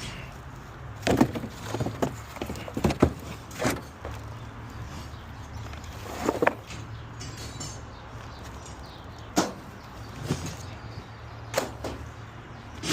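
Construction debris being handled and tossed: scattered thuds and clatters, about six sharp hits spread over several seconds, over a steady low hum.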